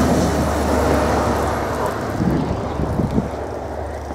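A vehicle driving past on a snow-covered road, loud at first and fading as it moves away.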